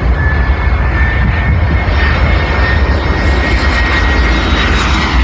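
Jet airliner's engines passing close: a loud, steady rumble with a thin high whine that rises slightly in pitch.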